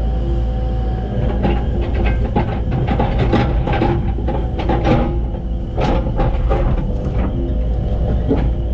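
Excavator engine running with a rapid series of clanks and scrapes, steel working against rocky ground.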